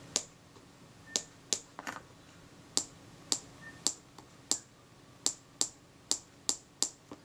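About a dozen sharp, light clicks, irregularly spaced at roughly two a second: small hard taps on the tiny lacquer-glued metal and glass parts of a camera's viewfinder unit, testing whether the acetone-softened lacquer has let go.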